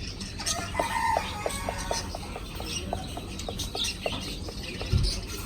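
Chickens clucking in a quick run of short repeated notes, with small birds chirping high above them.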